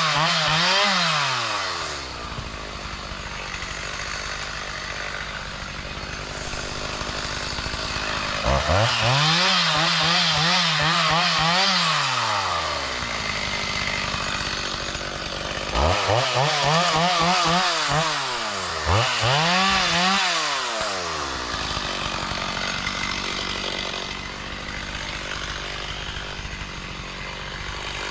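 Two-stroke chainsaw revved to full throttle and held there for a couple of seconds before dropping back to idle, four times over, idling steadily in between.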